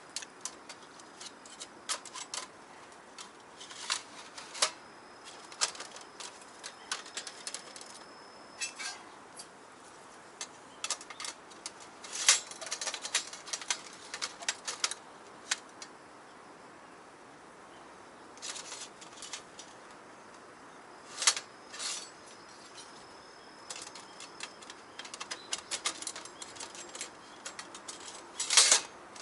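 Irregular light clicks, rustles and clatter of camping gear being handled, with a few louder knocks, the loudest near the end.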